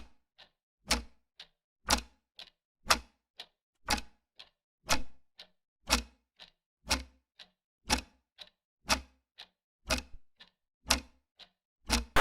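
Clock ticking steadily in a tick-tock rhythm: a loud tick every second with a fainter tick in between.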